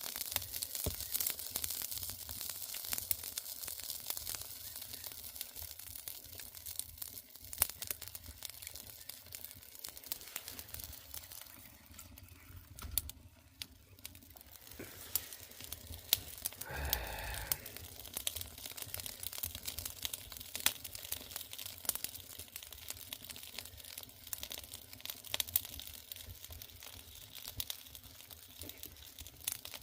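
Wood fire crackling and popping in an agungi firebox, with irregular sharp snaps throughout.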